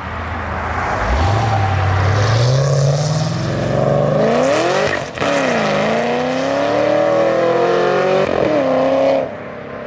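A performance car accelerating hard past the listener, its engine note climbing through the revs. The pitch drops sharply for an upshift about five seconds in, then climbs again and sinks as the car goes by. The sound falls away suddenly near the end.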